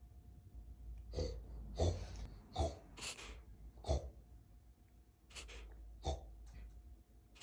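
Puppy snorting through its nose with pig-like snorts. It makes a run of short, sharp snorts roughly every half second to second, with a gap of over a second near the middle.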